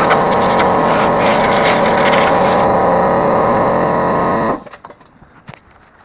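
A small power tool running steadily while the old chainsaw is cleaned. It cuts off suddenly about four and a half seconds in, leaving a few light clicks of handling.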